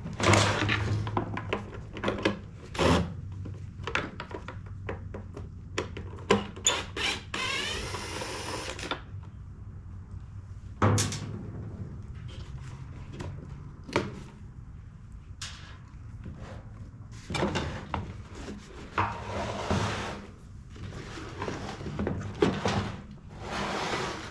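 Hand tools and metal parts knocking and clanking on a workbench while a backpack leaf blower is taken apart to check its flywheel key. There are many separate sharp knocks, and one longer rasping burst of about a second and a half roughly a third of the way in.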